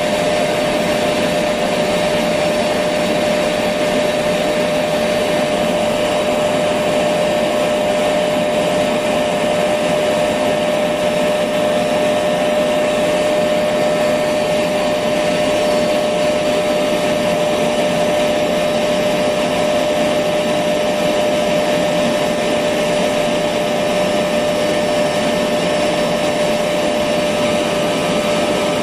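Electric vacuum cleaner running steadily: an even rushing hiss of air with a constant motor whine, no changes in speed.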